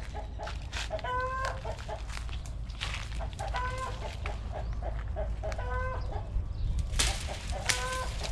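Chickens clucking: runs of short clucks broken by a longer, higher-pitched call about every two seconds. A brief loud noise cuts in near the end.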